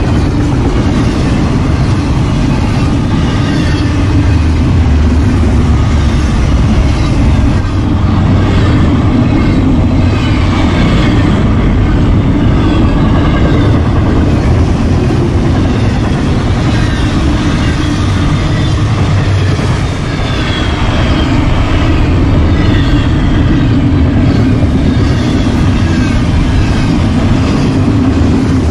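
Union Pacific double-stack intermodal freight train passing close by at speed: a loud, steady rumble of steel wheels on the rails, with short high-pitched squeals coming and going.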